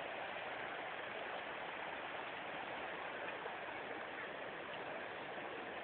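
Steady rush of waterfall water flowing and splashing.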